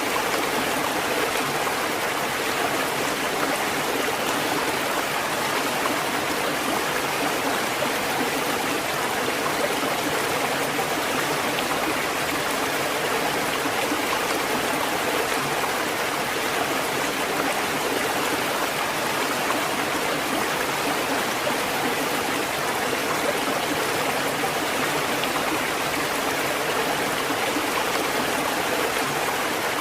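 Steady rushing water, an even hiss that holds constant without the rise and fall of breaking waves.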